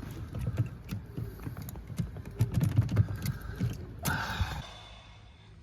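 Car key and keyring being jiggled and tugged in a locked ignition switch, giving irregular clicks and rattles: the key won't release because the battery is dead. A short rushing noise about four seconds in, then it goes quiet.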